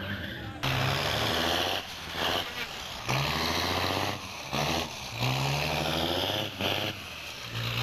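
Rally car engine at high revs, coming in loud bursts of a second or so with abrupt drops and pitch changes between them.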